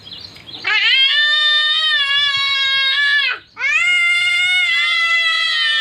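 A young boy shouting on purpose in two long, high-pitched wailing cries, the first starting about a second in and the second after a brief break past the middle.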